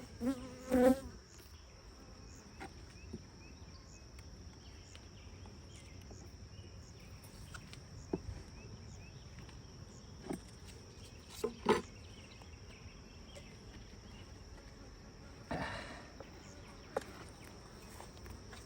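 Honeybees buzzing around an open hive, with a steady high tone behind them and a few short knocks and clicks of hive parts being handled, the loudest about twelve seconds in.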